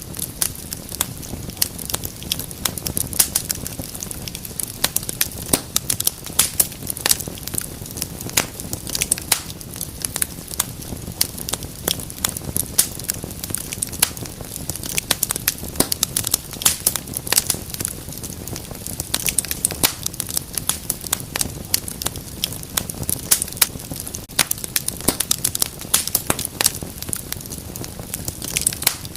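Wood fire crackling in a fireplace: dense, irregular sharp pops and snaps over a low steady burning hiss.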